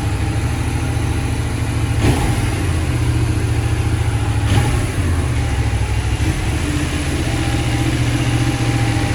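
Benelli 752S parallel-twin motorcycle engine running steadily with a low rumble.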